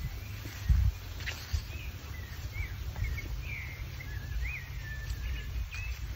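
Birds calling in a string of short whistled notes that slide up and down, over a steady low rumble on the microphone. A single low thump, the loudest sound, comes about a second in.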